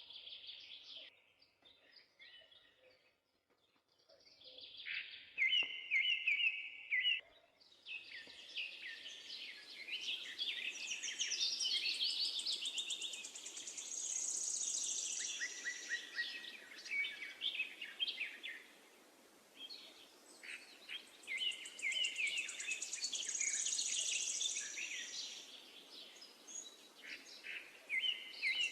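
Several songbirds singing and chirping, their calls overlapping. About eight seconds in, a steady hiss joins underneath the birdsong.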